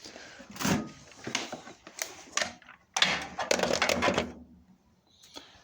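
Metal clanks and rattles from the cast-iron parts of an old coal and wood stove being opened and handled: a few separate knocks, then a longer clattering rattle about three seconds in.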